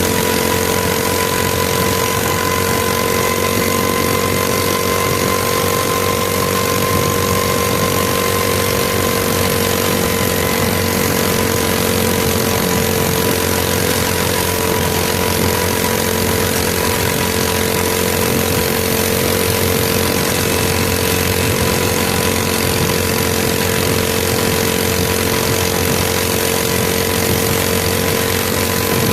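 Mini bike's small engine running at a steady speed, its pitch holding nearly constant with only a slight dip a few seconds in.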